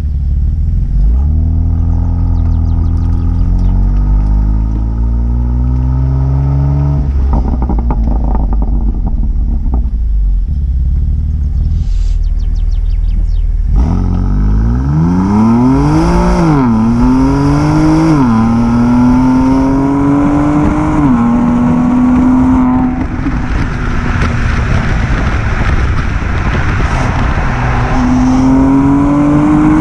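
BMW M2 Competition's twin-turbo straight-six on its stock exhaust with petrol particulate filter, revving and accelerating. Early on the engine pitch climbs slowly and falls away. About halfway through it climbs fast, dropping back sharply at three quick upshifts before holding steady, and near the end it rises again.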